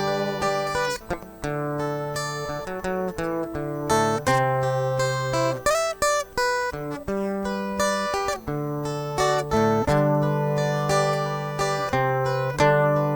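Instrumental break of a song: a Brazilian viola plucking a melody over steady chords, with no voice.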